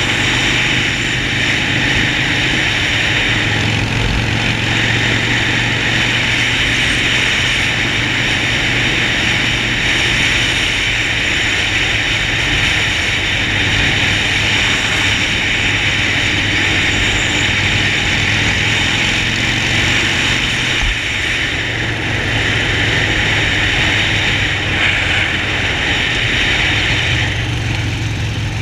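Harley-Davidson Sportster Forty-Eight's air-cooled V-twin engine running steadily, with a loud, even hiss over it.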